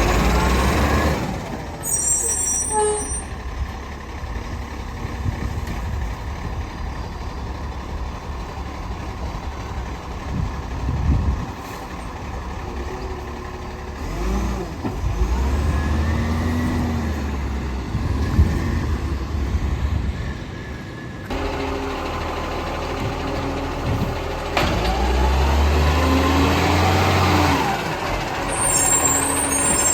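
Diesel garbage truck engine running and revving up and down several times. Short bursts of air-brake hiss come about two seconds in and again near the end.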